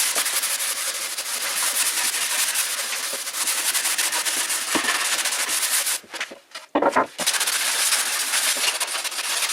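Sandpaper rubbed by hand along plywood edges, rounding the corners to take off burrs and splinters: a continuous scratchy rasp. It breaks off briefly about six seconds in, with a couple of knocks, then resumes.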